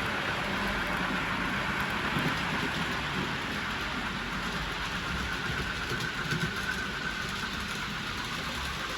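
Model train running on the layout's track: a steady motor whine over a rumbling rail noise, the whine getting a little stronger about halfway through.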